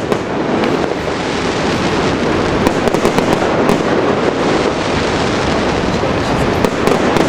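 Fireworks display: a dense, continuous barrage of crackling and bangs.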